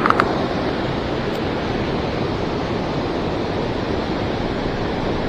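Steady rushing of white water through river rapids just below a spillway, with two brief ticks right at the start.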